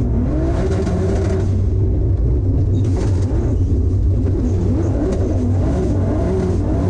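Engine of a BMW E46 touring drift car built to about 700–800 hp, heard from inside the cabin, revving up and down repeatedly as it is driven hard.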